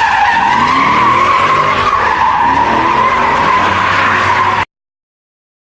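Car tyres squealing in one long, steady, shrill screech over a revving engine, cutting off abruptly near the end.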